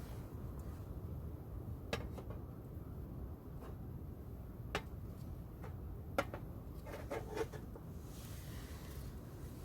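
A few light knocks and clicks of objects being handled and set down, with a short cluster of small clinks near the end, over a steady low rumble.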